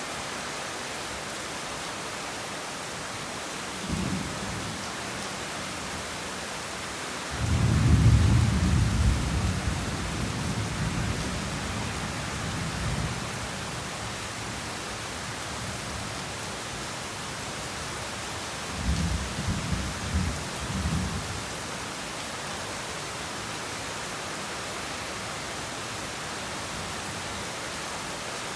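Heavy rain falling steadily, with thunder: a brief low rumble, then a loud roll of thunder that fades away over about five seconds, and later another shorter, broken rumble.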